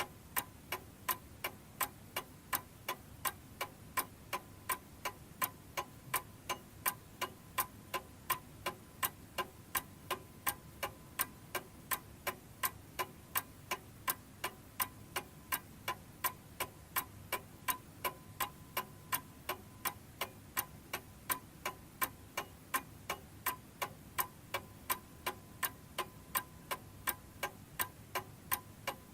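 Domestic chiming clock ticking steadily, about two ticks a second, with no chime striking.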